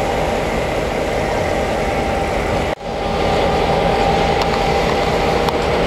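GM/Nohab diesel locomotive running steadily under way, a dense mechanical engine and rail noise. It breaks off for a split second a little under three seconds in, then carries on.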